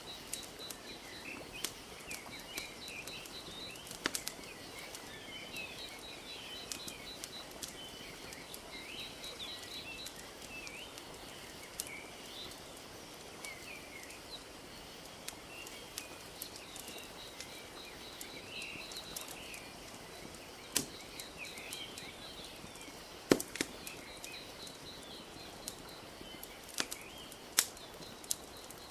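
Wood fire crackling with scattered sharp pops, a few louder snaps in the last third, over small birds chirping and trilling and a soft steady hiss.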